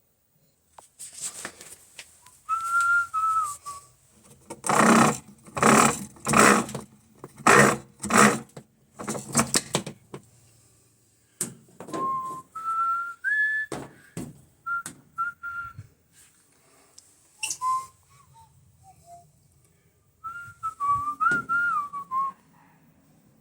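A person whistling short phrases of gliding notes, broken up by a run of loud, sharp clattering knocks in the middle.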